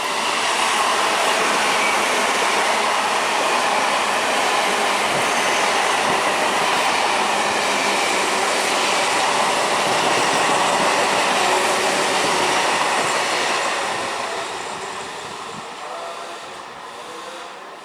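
A train passing close by at speed: loud, steady wheel-and-rail noise that builds in the first second, holds for about thirteen seconds and then fades away as the train recedes.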